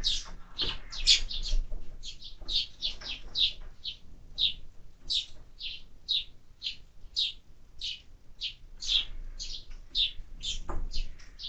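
Sparrows chirping at a feeder: a continuous string of short chirps, several birds overlapping at first, then steadier at about two to three chirps a second.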